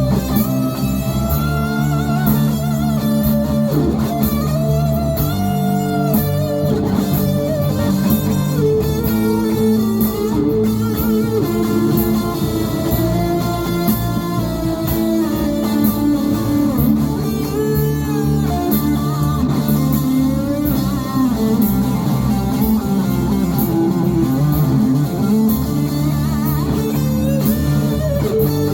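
Music: a guitar-led instrumental passage, with a melodic guitar line over strummed chords and bass.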